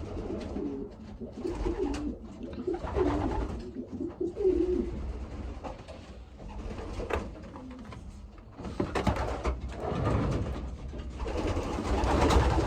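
Racing pigeons cooing: low, wavering coos over the first few seconds, with a rustling noise building near the end.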